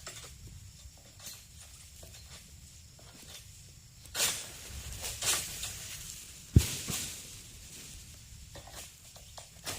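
Oil palm fronds being worked with a pole-mounted egrek sickle: rustling, with loud swishing strokes at about four and five seconds in, and one sharp knock a little after six and a half seconds.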